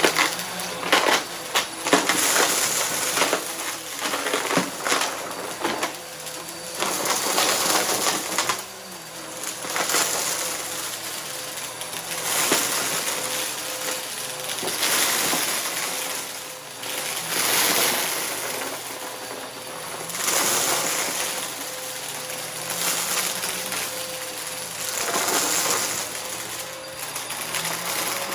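Upright vacuum cleaner running with a steady motor whine, pushed back and forth over a rug. The suction noise swells with each stroke, about every two to three seconds, with crunching and rattling as dry debris from the mess test is sucked up.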